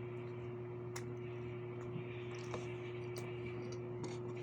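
Eating sounds: a few sharp clicks, typical of a spoon or fork against a plate, and soft mouth noises over a steady electrical hum.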